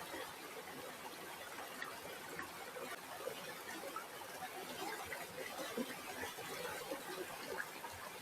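River water flowing and trickling: a steady, fairly faint wash scattered with small splashes and gurgles.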